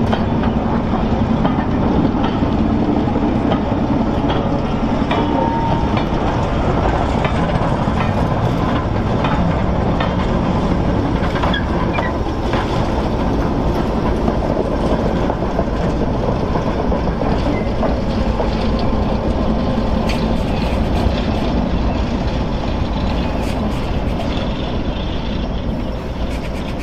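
Class 08 diesel shunter running with its guard vans, its engine giving a steady low hum, with scattered short clicks over the track.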